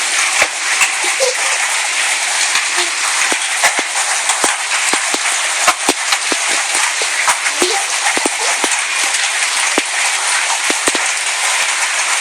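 Hailstorm: a dense hiss of rain and hail, with irregular sharp knocks of large hailstones striking, a few every second.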